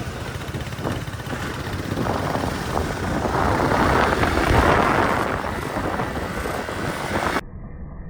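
Motorcycle running on the move, its low engine rumble mixed with a wind rush on the microphone that swells in the middle. Near the end the sound cuts off abruptly to a thinner, muffled track.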